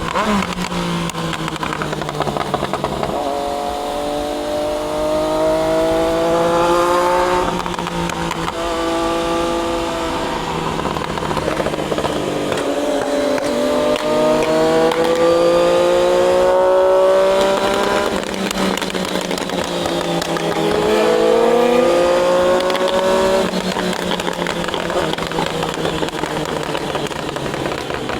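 Triumph Daytona 660's inline three-cylinder engine under riding load, accelerating hard three times, its pitch climbing through each gear and dropping back at the shifts.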